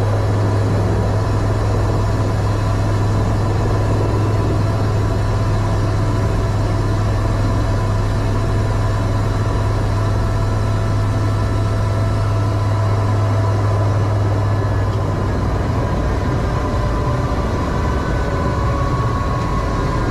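Eurocopter EC130 helicopter running at low speed: a steady low hum from its turbine and rotors with thin whining tones above it. The low hum eases off about fifteen seconds in, and one whine rises slightly in pitch near the end.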